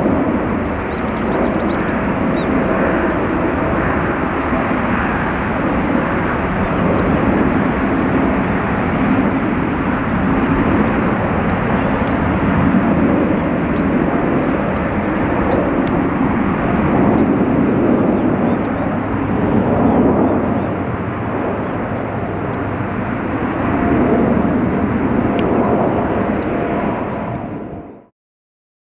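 Jet engines of an ANA Boeing 787-8 Dreamliner (Rolls-Royce Trent 1000) climbing away after takeoff, a steady, rumbling roar that swells and eases a little. It cuts off abruptly near the end.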